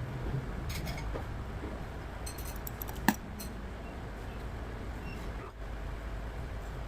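Small hard parts clicking and clinking as they are handled, in a few short clusters, with one sharper click about three seconds in, over a steady low hum.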